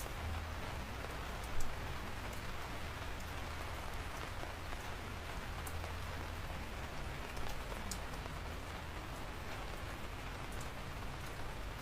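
Steady rain falling, with scattered individual raindrops tapping sharply over the even hiss, one louder tap about a second and a half in.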